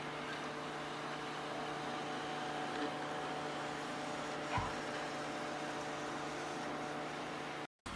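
ILIFE robot vacuum cleaner running, a steady hum of its motors and suction fan with a couple of faint clicks. The sound cuts out briefly near the end.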